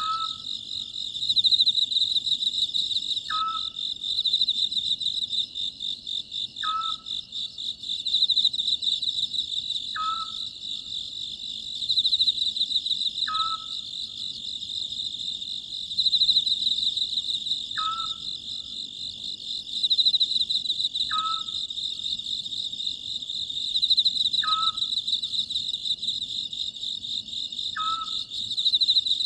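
Oriental scops owl repeating its short hooting call nine times, about once every three and a half seconds, over a steady high chorus of crickets.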